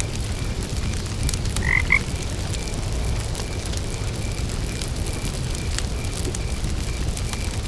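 A frog gives two short calls in quick succession about two seconds in. Behind it, a cricket chirps in an even, steady rhythm, and a campfire crackles with scattered sharp pops over a low rumble.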